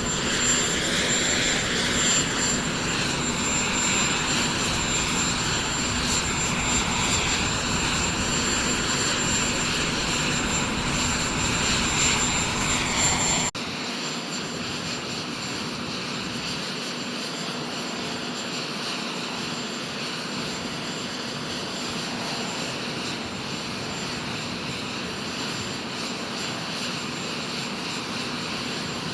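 Steady roar of jet aircraft engines with a thin high whine. About halfway through it cuts suddenly to a quieter, steady roar.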